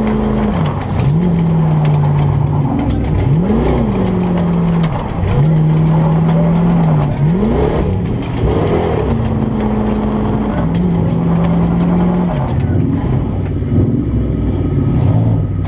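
Demolition derby car's Ford 4.6 V8, heard from inside the stripped cabin, running at a held throttle. Its pitch stays level for a second or two at a time, broken by several quick revs up and back down.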